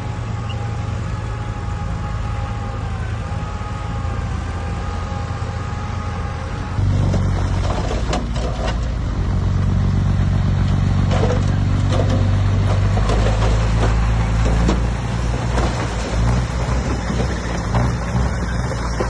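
Diesel engines of heavy earthmoving machinery running, at first a steady hum with a wavering whine. About seven seconds in it changes abruptly to a louder, lower engine sound with metallic clanks and rattles.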